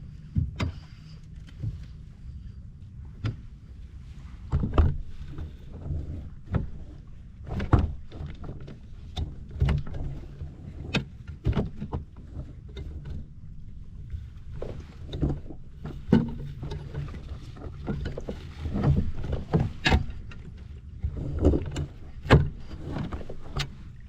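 Fishing kayak on the water: irregular knocks and clunks of gear against the hull over a steady low hum.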